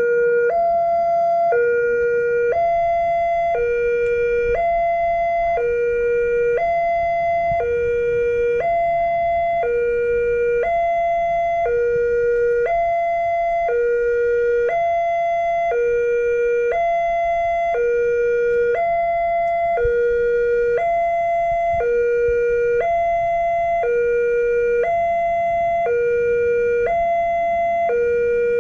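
Railway level-crossing warning siren sounding its two-tone alarm: a lower and a higher tone alternating, about a second each, steady and unbroken, warning that a train is approaching.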